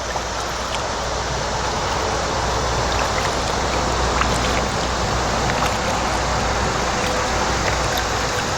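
Steady rush of water and wind noise on the microphone from a kayak on a creek, with a low rumble and scattered light drips or ticks.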